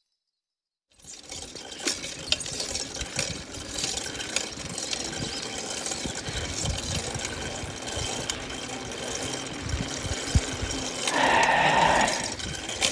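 Bicycle freewheel and chain ticking rapidly as the bike rolls, with rattling knocks from the frame over the road surface. It starts about a second in, and there is a brief higher-pitched sound near the end.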